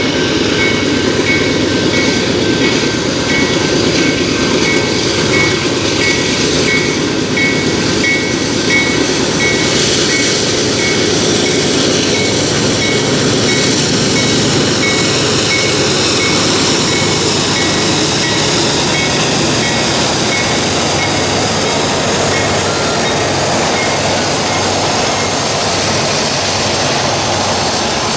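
BNSF freight train cars rolling past with a steady, loud clatter and rumble from wheels on the rails. A crossing bell dings about twice a second through most of it, then fades out near the end.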